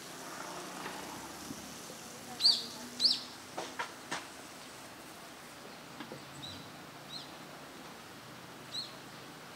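A bird calling: two loud, short, falling chirps about two and a half and three seconds in, then a few fainter ones, over the steady rush of a stream. A few sharp clicks come just after the loud chirps.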